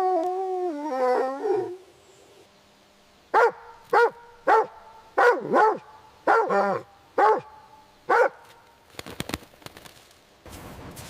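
A dog's howl wavers and trails off in the first two seconds, followed by a run of about nine sharp barks, singly and in pairs. Near the end a few clicks and then a steady hiss come in.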